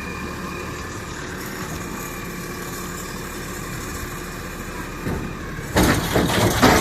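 Garbage truck engine idling steadily, then a loud, sudden noisy burst near the end.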